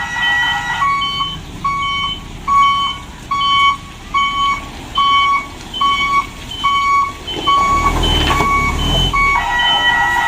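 Dump truck's reversing alarm beeping in a steady, even rhythm, about one and a half to two beeps a second, as the truck backs up. A brief low rumble comes near the end.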